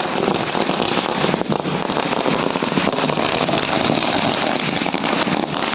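Firecrackers going off in a rapid, unbroken string of loud crackling pops.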